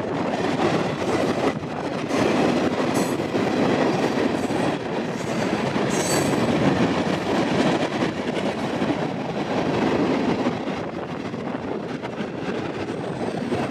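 Freight train of tank cars rolling past: a steady rumble of steel wheels on the rails, with two brief high wheel squeals about three and six seconds in.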